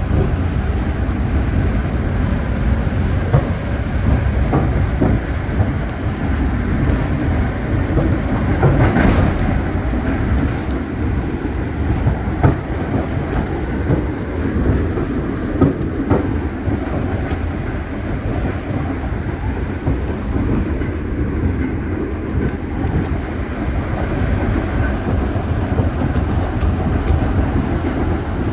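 Staten Island Railway train running along the track: a steady rumble with occasional sharp clicks of the wheels over rail joints, and a thin steady high whine that drops out briefly past the middle.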